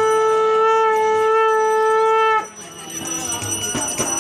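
Conch shell (shankh) blown in one long steady note that cuts off about two and a half seconds in, the way a conch is sounded at a Hindu puja.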